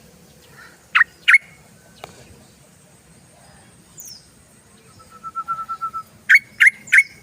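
Yellow-vented bulbul calling in lively bursts: two loud, sharp notes about a second in, a quick run of even notes a little past the middle, then three more loud, sharp notes near the end.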